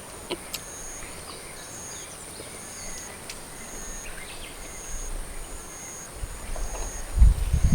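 Outdoor nature ambience: a steady high insect drone with a short high chirp about once a second, and occasional faint bird calls. Near the end a loud low rumble rises.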